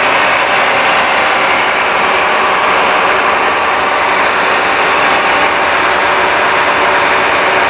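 Cummins ISC inline-six diesel engine idling steadily.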